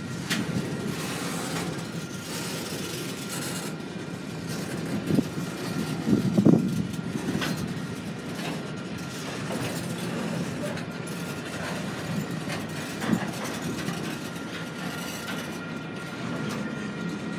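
Freight train rolling past on the rails: a steady rumble of wheels with irregular clanks and knocks, the loudest cluster about six seconds in.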